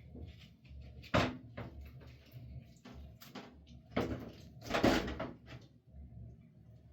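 A series of knocks and bumps: a sharp one about a second in, a few lighter ones, then two longer, louder knocks around four and five seconds in.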